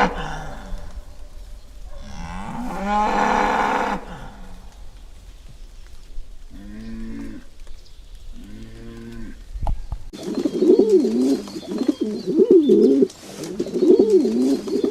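Animal calls in quick succession: two cows mooing in the middle, each call about a second long, then a dove cooing over and over in a wavering phrase. Other loud animal calls open the stretch.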